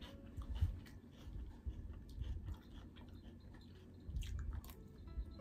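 Close-miked chewing of a mouthful of salad, with scattered faint clicks and scrapes of a fork in a plastic container.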